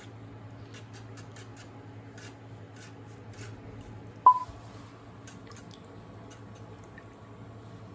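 Scattered light clicks of small metal tools and parts being handled, with one sharp metallic clink about four seconds in that rings on briefly, over a steady low hum.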